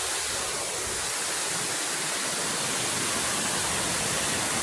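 Waterfall rushing steadily, a continuous even hiss of falling water close by.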